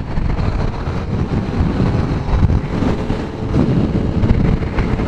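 Motorcycle riding at speed: heavy, gusting wind buffeting the microphone over the steady drone of the engine.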